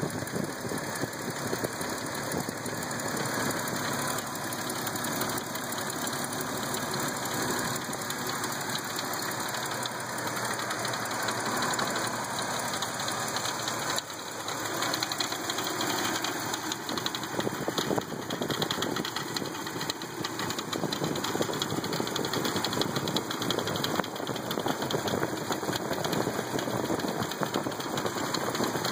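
Ford Fairmont wagon engine running steadily at idle, heard up close in the engine bay.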